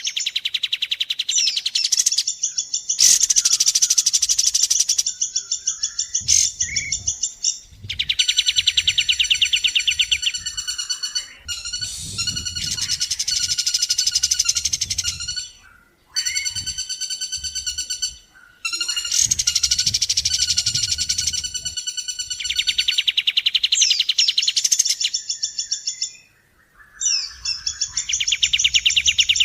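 Recorded calls of kapas tembak and woodpecker, used as bird-training song: long, rapid trills of fast repeated high notes in phrases several seconds long, with short pauses between them.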